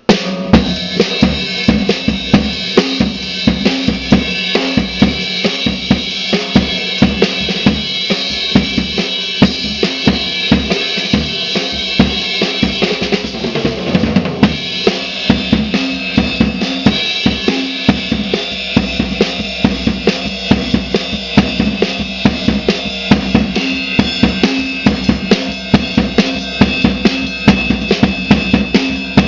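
Slingerland Sound Stage drum kit being played in a steady groove, with bass drum, snare and cymbals. The playing starts abruptly.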